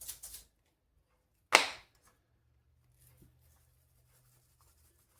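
Seasoning shaker in use: a few quick rustling shakes, then one sharp click-like knock about a second and a half in, followed by a few faint light taps.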